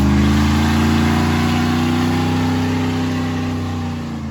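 Truck engine held at high revs, loud and steady. Near the end the pitch eases down and the sound fades away.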